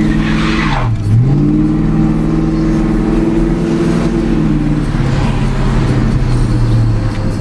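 1999 Ford Mustang GT's 4.6-litre V8 under hard acceleration. The revs dip sharply about a second in and climb again, hold high, then fall to a lower steady note a little past halfway.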